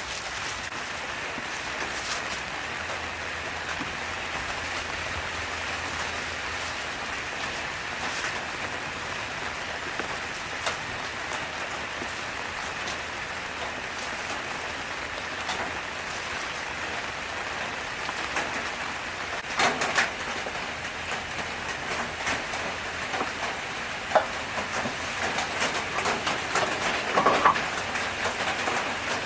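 Chicken wings or potatoes frying in hot oil, a steady sizzling and crackling. A few sharper clacks, like a utensil against the pan, come about two-thirds of the way through and near the end.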